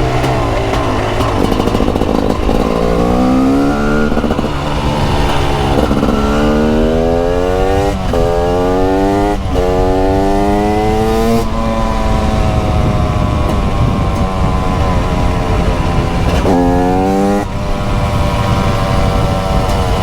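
TM SMR 300 supermoto's 300cc single-cylinder two-stroke engine pulling hard through the gears: several rising revs, each cut off sharply by an upshift. It then holds a steadier pitch, with one brief rev rise and sharp drop about 17 seconds in, over wind noise.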